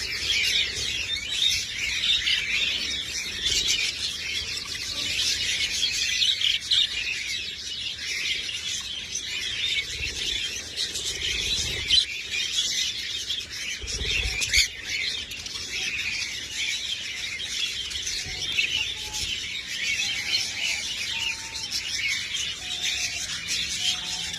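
A flock of budgerigars chirping and chattering together without a break, many birds calling over one another.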